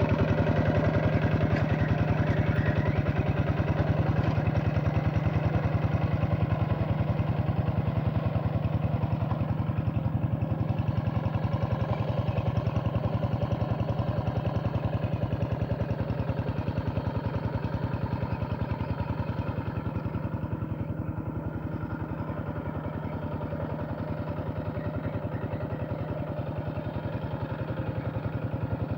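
Farm tractor's diesel engine running steadily while it works a flooded rice paddy, with an even, rapid firing beat that eases slightly in loudness about two-thirds through.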